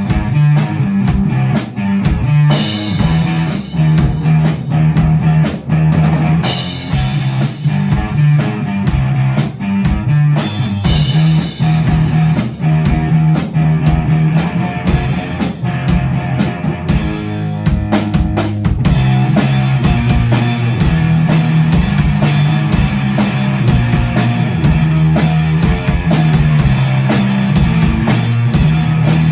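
Rock band rehearsing a song without singing: guitar over a drum kit keeping a steady beat, with strong low notes throughout.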